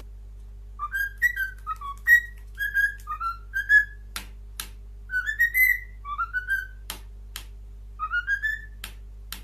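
Parrot whistling in short chirpy phrases of quick rising and falling notes, with a few sharp clicks in between, over a steady low electrical hum.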